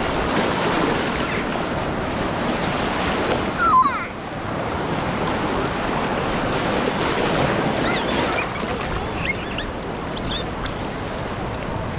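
Sea waves breaking and washing up on a sandy beach, a continuous rush of surf.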